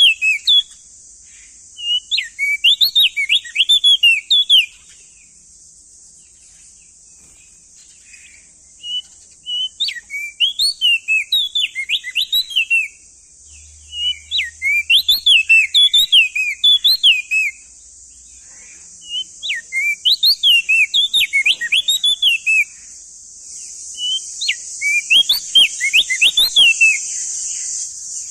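Crested white-eye (opior jambul) singing: repeated bursts of quick, rising and falling chirping notes, each phrase a second or two long with short pauses between. A steady high hiss runs underneath and grows louder near the end.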